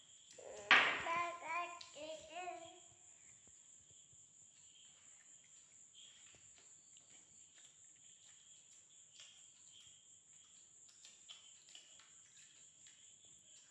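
A child's voice, a brief wordless vocalising with a wavering pitch, about a second in, lasting a couple of seconds. After it, very quiet, with faint scattered clicks and a steady high-pitched whine.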